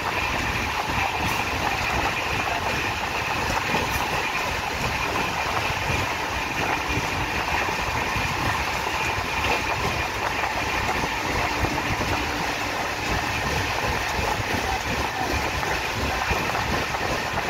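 Passenger train running, heard from on board: a steady rumble and rush of the wheels on the rails.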